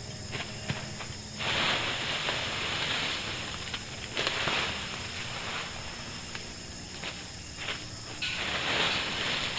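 Dry leaves and brush rustling in long swishes, three main ones each lasting a second or two, with small clicks and crackles between them.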